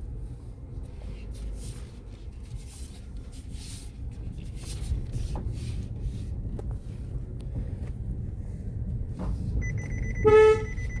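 A vehicle's engine running with a steady low rumble as it moves over rough, muddy ground. About ten seconds in comes a short, loud, horn-like tone, and a thin high steady tone begins just before it.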